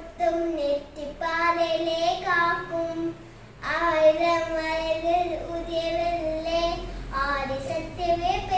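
A young girl singing solo and unaccompanied, holding long notes with slight wavers in pitch, with a short pause for breath about three seconds in.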